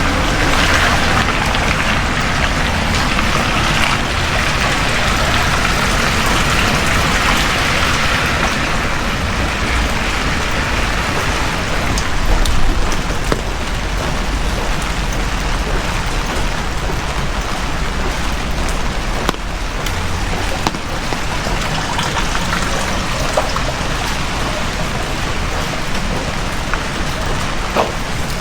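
Heavy rain falling steadily on the street, a loud even hiss with scattered louder drops. A passing vehicle on the wet road fades out over the first eight seconds or so.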